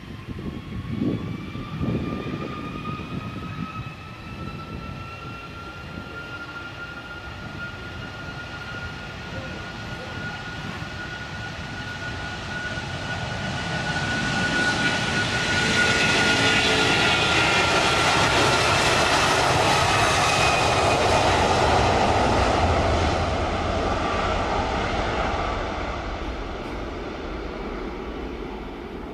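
Airbus A330-200 jet airliner's engines passing by with a steady whine over a broad rumble. It grows louder to a peak about halfway through, then fades away.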